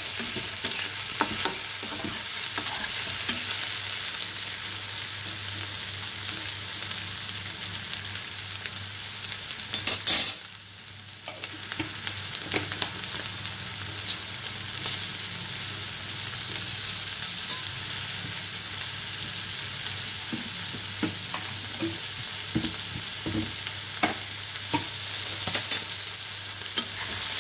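Chopped onion and green peas sizzling in hot oil in a steel kadhai, a steady crackling hiss. About ten seconds in there is a brief louder burst, then the sizzle is quieter for a second before it settles back.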